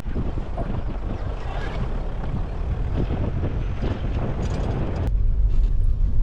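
A vehicle driving on a rough, muddy dirt road: low engine and road rumble with dense crackling tyre noise. About five seconds in the crackle drops away, leaving a steadier, louder low rumble with a few knocks.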